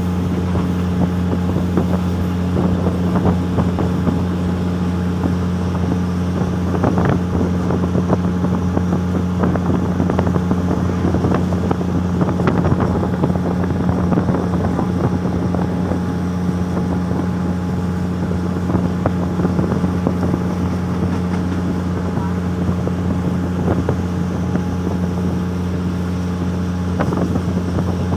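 Inside a moving diesel train: a steady engine drone with a deep, even hum, over rolling rail noise and scattered knocks and rattles.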